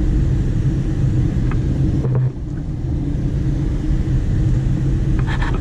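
Car interior road noise while driving: a steady low rumble from the engine and tyres, with a hum that drops away about two seconds in.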